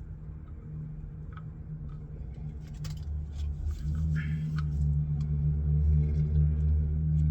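A vehicle engine running with a low, steady hum that grows louder about four seconds in, with a few light clicks over it.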